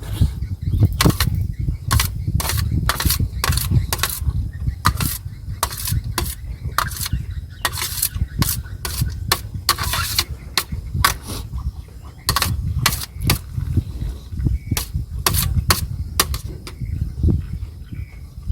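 Close-miked eating of boiled chicken rice: chewing and wet mouth sounds with many quick, sharp clicks and smacks, over a continuous low rumble.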